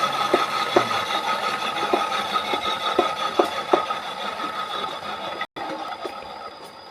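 Power tool running steadily on wood, with a fixed whine and scattered light clicks, getting quieter toward the end.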